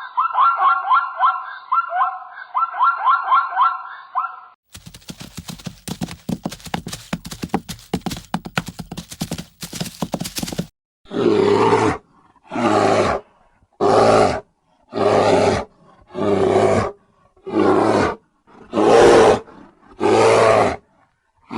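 A run of wild animal calls. First comes a warbling, trilling call for a few seconds. Then a dense rapid rattle of clicks. From about halfway in, a large animal gives a regular series of rasping roars, roughly one a second.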